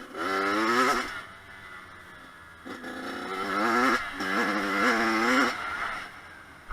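Kawasaki KX100 two-stroke motocross bike revving in bursts around the track. The pitch climbs hard for about a second, eases off, then climbs through two rising runs with a short drop between them near the middle, as the rider shifts up, before backing off again.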